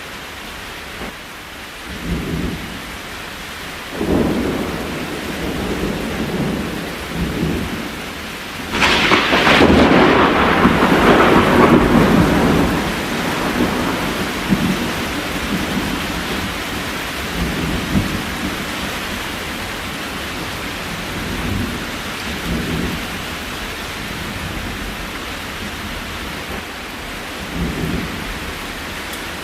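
Steady rain with thunder rolling repeatedly. The biggest roll comes about nine seconds in and lasts several seconds, with smaller rumbles before and after.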